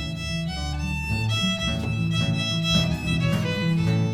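Acoustic folk band playing the instrumental introduction to a song, a melody line moving over repeating bass notes.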